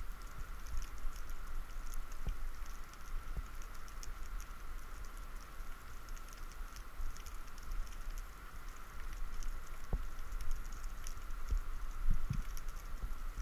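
Underwater sea ambience: a constant fine crackle of tiny clicks over a low rumble, with a few soft low thumps, two of them close together near the end.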